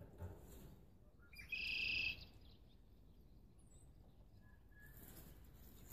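A bird gives a short, high call about a second and a half in, followed later by a couple of faint chirps, over a quiet background.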